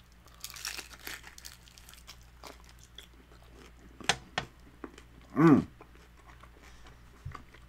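Biting and chewing a crisp fried birria taco soaked in consommé: a crunch as the shell breaks, then wet chewing with scattered mouth clicks. About five and a half seconds in comes a short hummed voice sound that rises then falls in pitch, the loudest sound here.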